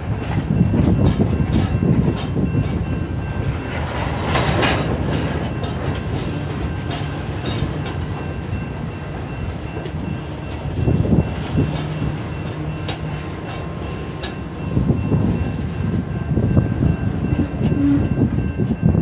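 Freight train of boxcars and covered hopper cars rolling across a road grade crossing, a rumble with irregular swells as the cars pass. A brief, louder, sharper noise comes about four seconds in.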